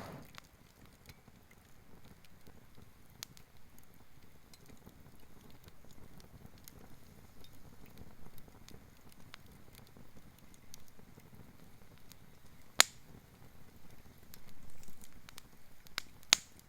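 Wood fire of gathered forest branches crackling quietly with scattered small ticks, and two loud sharp pops a few seconds apart near the end.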